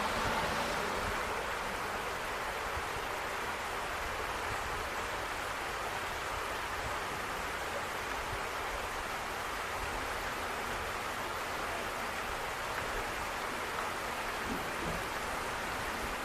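Steady rain ambience: an even hiss of falling rain and running water that holds level throughout.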